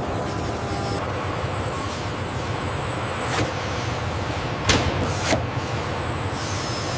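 Steady low mechanical rumble with three sharp knocks a little past the middle, the second the loudest.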